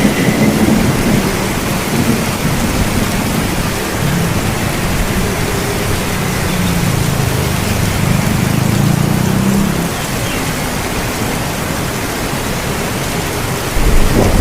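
Steady heavy rain with thunder rumbling low underneath, swelling in the middle and growing louder again near the end.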